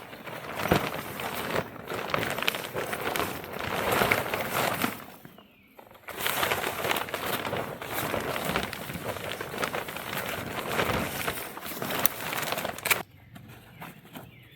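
Footsteps crunching through dry forest leaf litter, with a short break about five seconds in and a drop to quieter woodland sound near the end.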